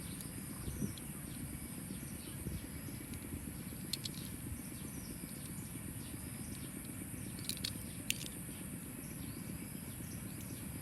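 Steady low background hum and hiss with faint, repeated high chirps and a few soft clicks.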